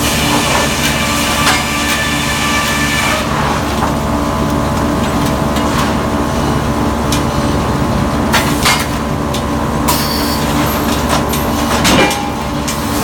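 Frick sawmill machinery running: a loud, steady mechanical din with several steady tones and a rhythmic pulse. A high whine drops away about three seconds in, and a few sharp knocks come in the second half, the loudest near the end.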